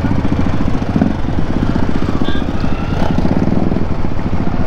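Motorcycle engine running at low revs while the bike rolls slowly, a steady rapid pulsing.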